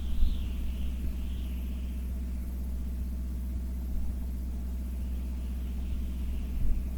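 A steady low drone of a running engine, with an even pitched hum and a continuous rumble underneath. A couple of short knocks come just after the start and near the end.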